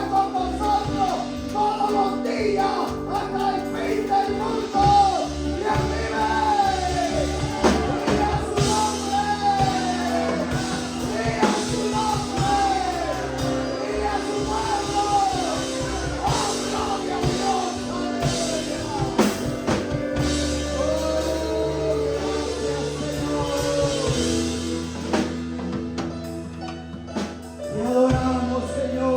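Live worship music: a singer with band accompaniment, drums and bass keeping a steady beat.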